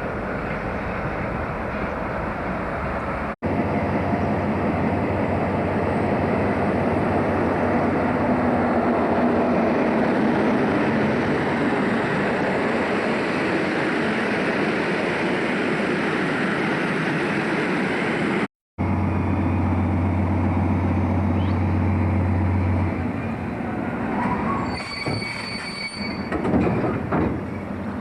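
A train running on the rails, its steady rumble heard across three shots joined by short cuts. Near the end there is a brief high squeal with a few knocks.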